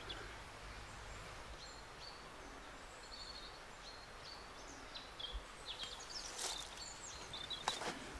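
Faint woodland ambience: scattered short bird chirps over a steady hiss, with a few brief rustling clicks near the end.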